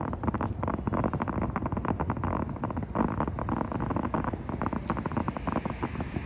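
Aerial fireworks bursting in rapid succession: a dense run of sharp bangs and crackles over a continuous low rumble.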